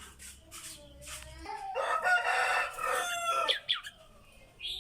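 A rooster crowing once: a single loud call of about two seconds, starting about a second and a half in.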